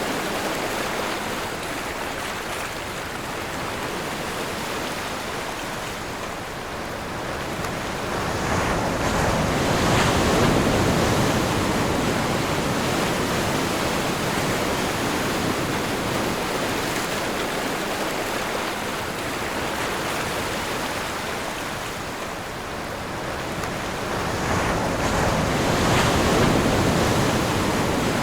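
Ocean waves rolling onto a shore: a continuous wash of surf that swells into a louder break about a third of the way in and again near the end, easing back between.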